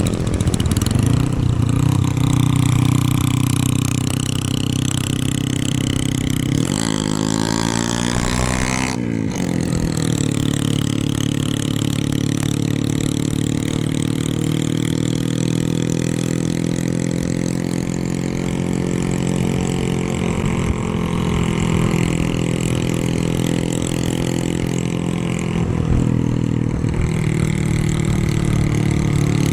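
Motorcycle engine running steadily under way. About seven seconds in it revs up with a rising pitch, breaks off sharply at a gear change about two seconds later, and settles back to a steady drone.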